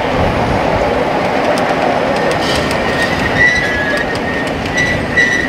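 A grand-scale steam train's passenger cars rolling past on steel wheels, with a steady rolling noise and scattered clicks over the rail joints. From about three seconds in, a thin wheel squeal comes and goes as the cars take the curve.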